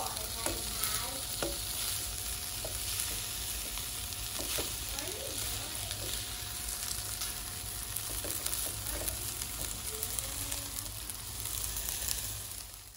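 Shrimp fried rice sizzling in a frying pan while a spatula stirs and scrapes through it, with occasional light knocks of the spatula against the pan. The sizzle fades away near the end.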